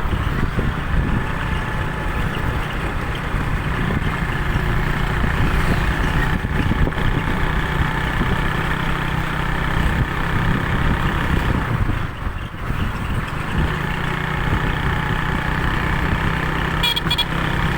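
Vehicle engine running steadily, with a brief drop in level about twelve seconds in.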